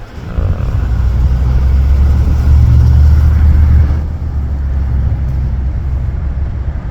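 Moving car's road noise with wind buffeting the microphone: a loud, low rumble that swells about a second in, is strongest in the middle and eases slightly near the end.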